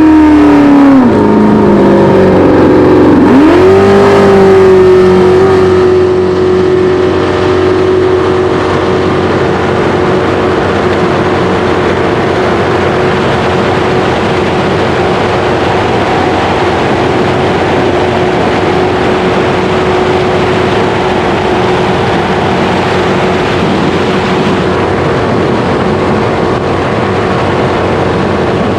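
Race jet boat engine running loud at high throttle. Its pitch drops and climbs back twice in the first few seconds as the throttle is eased and reopened, then holds a steady high note at speed with a rushing wash.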